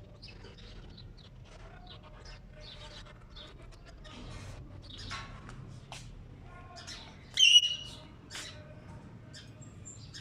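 Ring-necked parakeet chattering in short chirps and clicks, with one loud squawk about seven and a half seconds in.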